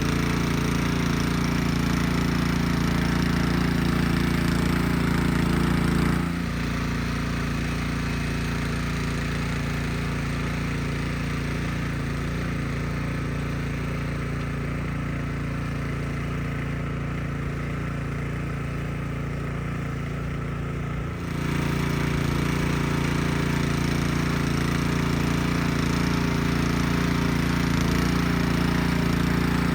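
Craftsman rear-tine garden tiller's small engine running steadily under tilling load. About six seconds in the sound drops and turns duller, and it comes back full about 21 seconds in.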